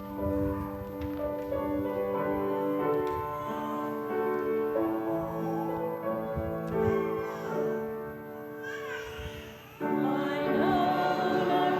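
A hymn tune played on a keyboard in long held chords. About ten seconds in it gets louder as the congregation starts singing the hymn.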